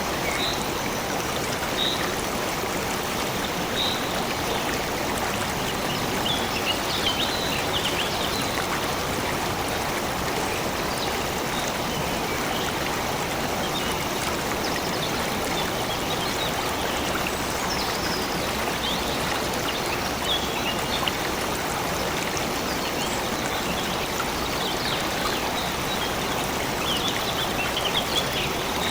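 A stream running steadily, with small birds chirping briefly now and then over the water.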